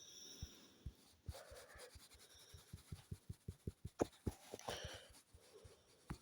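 Faint stylus taps and strokes on a drawing tablet, quick taps coming several a second and crowding together in the middle, with soft breathing in between.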